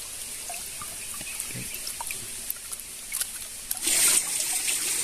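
Water trickling steadily, with small clicks and drips, growing clearly louder and fuller about four seconds in.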